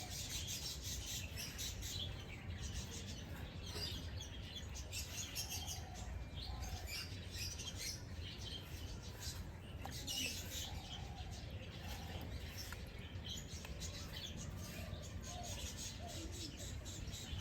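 Wild birds chirping and twittering on and off, several short calls overlapping, over a steady low background rumble.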